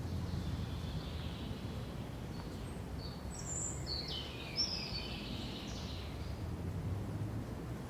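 Small songbirds chirping and trilling a few times, clearest in the middle, over a steady low rumble of forest ambience.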